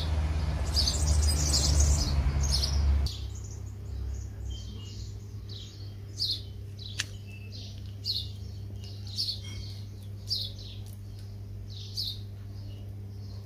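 A small bird chirping over and over, short high chirps about once a second, with a low steady hum beneath. For the first three seconds a loud rushing noise covers it and then cuts off abruptly.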